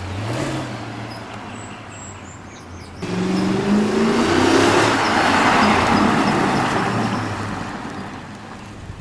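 Mercedes CLS63 AMG's 6.3-litre V8 running as the car pulls away, with a brief rise in revs, then about three seconds in it revs hard under acceleration, rising in pitch and getting loud, before fading as the car moves off.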